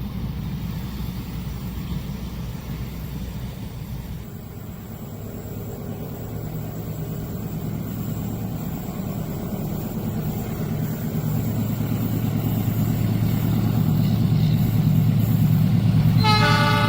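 Low engine drone growing steadily louder as a train approaches. Near the end a train horn starts, several tones sounding together.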